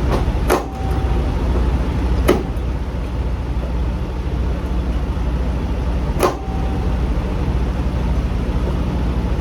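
Heavy diesel engine idling steadily, with three short sharp clicks about half a second, two seconds and six seconds in.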